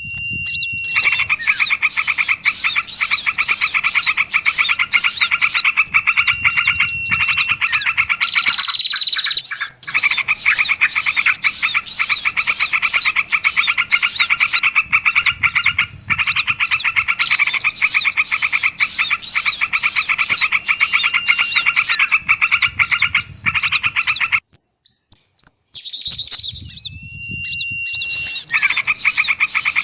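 Bird-lure recording of several small songbirds calling together: a dense, fast run of repeated chirps and chatter, with a clear whistle that rises and then holds, heard three times. Most of the chorus drops out for about a second and a half past the middle.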